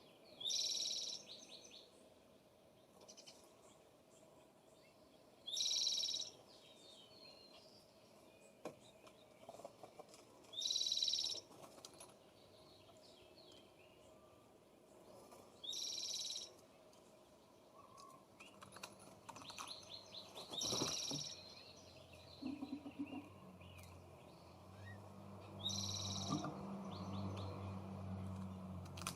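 A songbird repeating the same short, high-pitched song phrase about every five seconds, six times. A low hum sets in during the second half.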